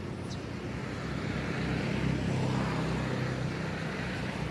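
A motor engine humming steadily, growing louder through the middle and easing off again, with one short high chirp near the start.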